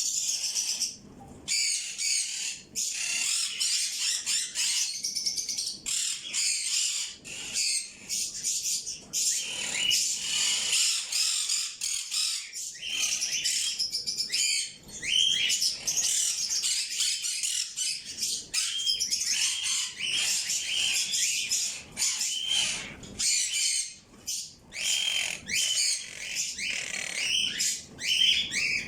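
Many small birds chirping and twittering together, a dense chorus of short overlapping high calls with brief, repeated chirps standing out.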